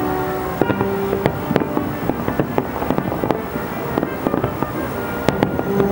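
Aerial fireworks bursting in quick, irregular succession: many sharp bangs and crackles, several a second, over a continuous rumble.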